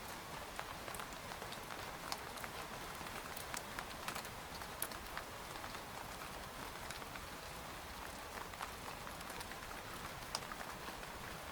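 Steady rain on a tent: a constant hiss with many single drops tapping sharply on the fabric at irregular moments.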